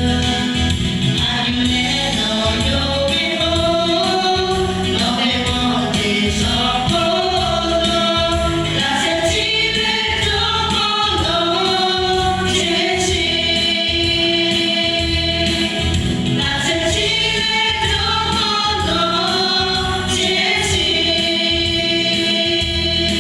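A choir singing a Christian song over instrumental accompaniment with a steady beat.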